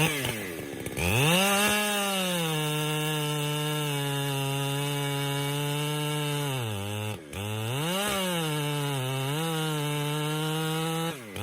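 Two-stroke chainsaw revved up about a second in and held at a steady full-throttle pitch. It drops back sharply for a moment about seven seconds in, then revs up and down a few more times before letting off near the end.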